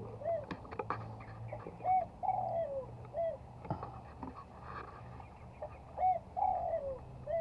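A bird calling in repeated phrases, each a short rising-and-falling note followed by a longer falling note, heard about three times. A few faint clicks are heard near the start and in the middle.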